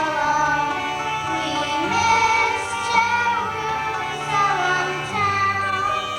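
Voices singing held, gliding notes over instrumental accompaniment with a steady bass line: a song from a stage musical.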